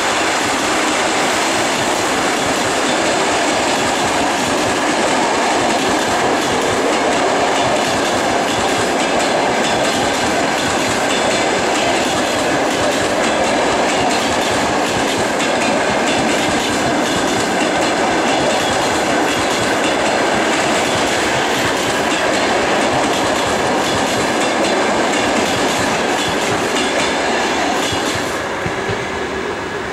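Passenger coaches of a fast train rolling past at speed, a steady loud rush of wheels on rails. The sound falls away near the end as the last coach passes.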